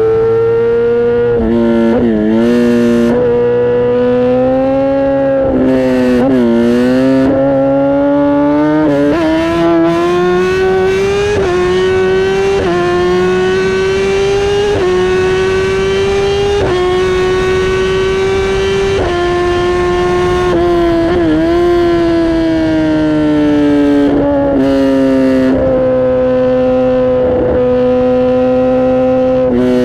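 Kawasaki ZX-10R inline-four engine and exhaust pulling hard: the revs climb, then drop sharply at each upshift, again and again for about twenty seconds. Near the end the revs fall away steadily as the bike slows, then hold steady.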